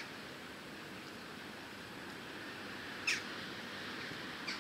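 Two short, sharp bird calls, each sweeping quickly downward in pitch, about three seconds in and again near the end, over a steady background noise.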